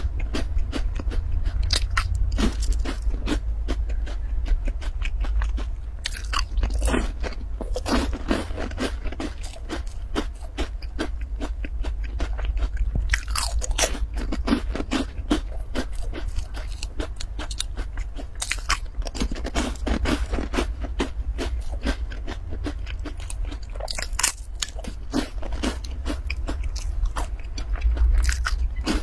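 Crunchy oat chocolate crisp cubes being bitten and chewed close to the microphone: a dense run of sharp, crisp crunches.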